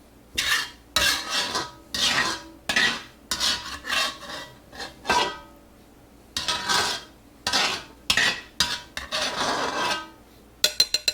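A metal utensil scraping and scooping stir fry out of a cast iron pan: about a dozen rasping strokes with a faint metallic ring and a short pause midway. A fast, even rattle starts near the end.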